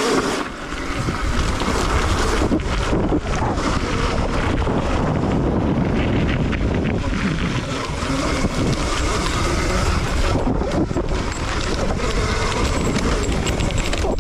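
A dirt bike riding fast across rough ground, mostly heard as heavy wind buffeting the microphone over a low rumble, with no clear engine note.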